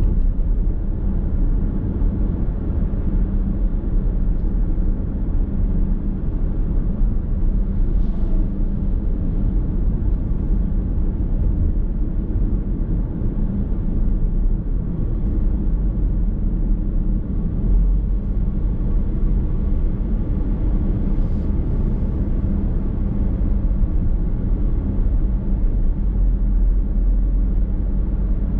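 Steady road and tyre noise with a low engine hum inside a moving car's cabin, with no sharp changes.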